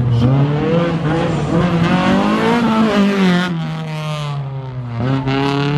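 Honda Civic hatchback rally car's engine revving hard as it drives past. The note climbs for about three seconds, falls away, then rises sharply again about five seconds in.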